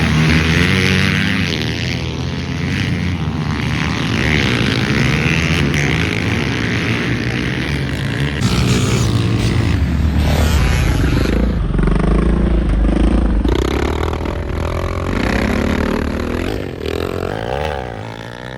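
Dirt bike engines running and revving, their pitch rising and falling with the throttle; the sound fades near the end.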